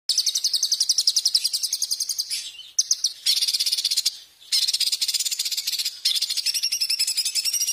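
A songbird giving a very fast, high-pitched chattering trill of rapidly repeated notes, in several runs with short breaks about two and a half and four seconds in.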